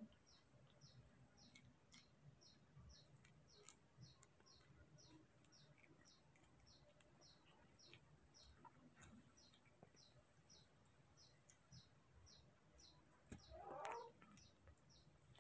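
Near silence with a faint, high chirp repeating evenly about twice a second: a bird calling in the background. A brief, louder sound near the end.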